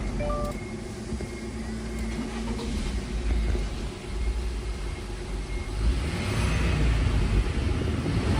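Subaru Levorg's FB16 1.6-litre turbocharged flat-four engine running, a steady low rumble that grows louder about six seconds in. The catalytic converter is missing.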